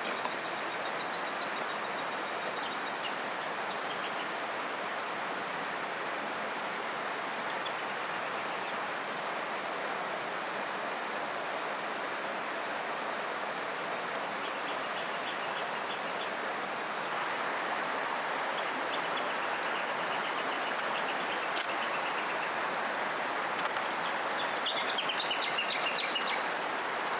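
River water flowing steadily. Birds call high above it now and then, with short trilling phrases several times, and a few faint clicks come near the end.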